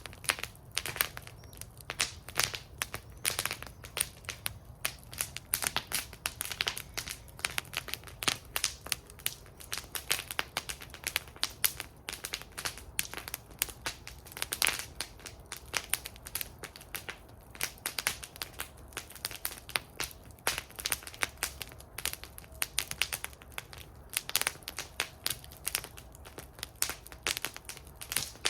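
Wood fire burning in a fire bowl, crackling with many irregular sharp pops over a low steady rumble.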